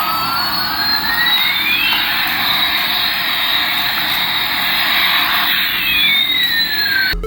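Jet-engine sound effect: a steady hiss with two whistling tones that sweep up and down across each other. It cuts off abruptly near the end.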